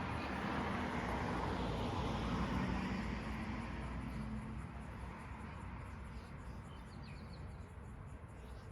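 Outdoor ambience: a broad rushing noise that swells over the first few seconds and then slowly fades, with a few faint high chirps toward the end.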